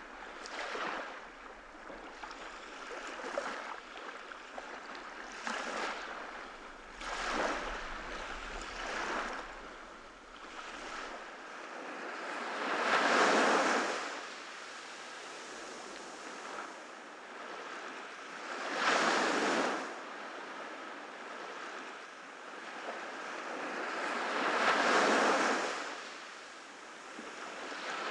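Ocean waves breaking and washing up on a beach. Small swells come through in the first half, then three larger waves break about six seconds apart.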